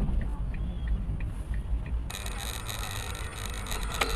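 Steady low rumble of a car driving, with faint ticks. About halfway through, the sound changes abruptly to a brighter, hissier car recording.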